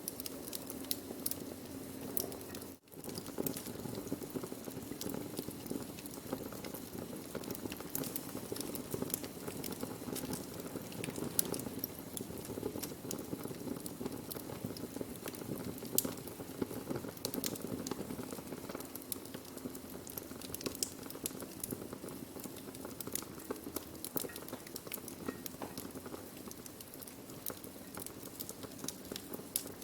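Burning wood fire crackling: frequent sharp, irregular pops and snaps over a steady low rush of flame. The sound drops out for a moment about three seconds in.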